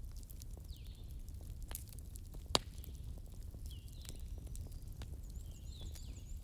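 Wood fire burning with a low steady rumble and scattered crackles, one sharp pop about two and a half seconds in. Short high chirps come and go behind it, with a quick high trill near the end.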